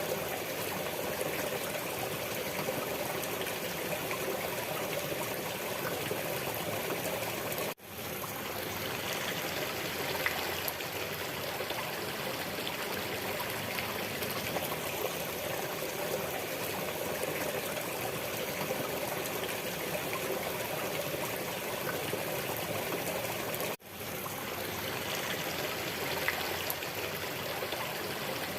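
Steady running water of a stream, trickling and flowing without a break in character; the sound cuts out for a split second twice, about 8 and 24 seconds in.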